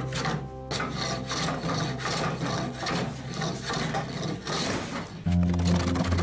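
A run of quick scraping strokes from a hand tool shaving wood off a mirabelle-wood axe handle. Background music plays at the start and comes back in about five seconds in.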